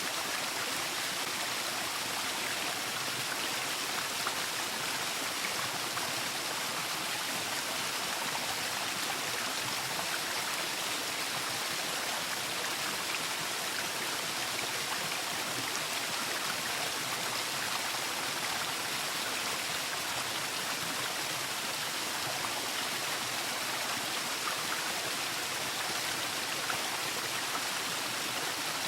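Waterfall: falling water with a steady, even rushing hiss.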